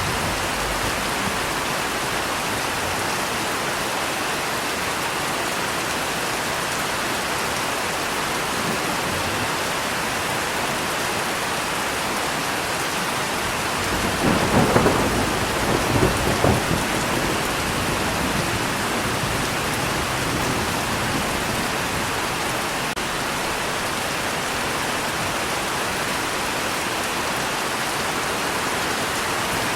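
Steady rain falling, with a roll of thunder rumbling and crackling for about three seconds in the middle.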